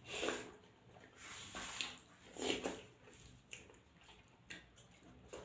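Close-miked chewing and lip smacking of a person eating a handful of rice mixed with dal, in soft irregular bursts about once a second.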